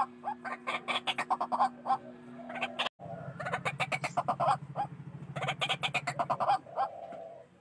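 White-breasted waterhen calling: runs of rapid, harsh repeated notes, each run lasting one to two seconds, with a brief cut to silence about three seconds in.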